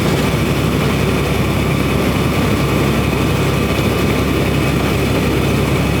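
Semi truck's diesel engine running steadily with road noise, heard from inside the cab.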